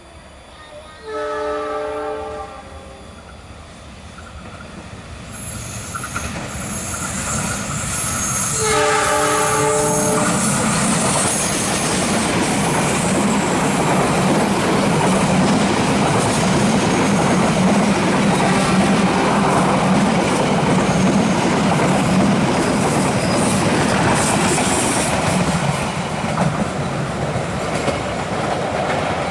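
Indonesian passenger train approaching and passing: the locomotive sounds its multi-tone horn twice, about a second in and again about eight seconds in, then the train goes by loudly with wheels clicking over rail joints and a high wheel hiss, easing off near the end.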